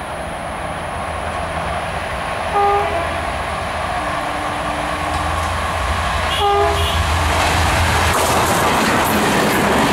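An Indian Railways locomotive horn gives short blasts, one about two and a half seconds in and another about six and a half seconds in, over a steady low engine rumble. The noise of the approaching train grows louder toward the end as the wheels begin clattering past.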